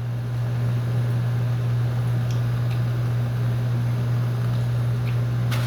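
A steady low electric hum, like an appliance motor or fan running, with a few faint ticks and one sharp click near the end.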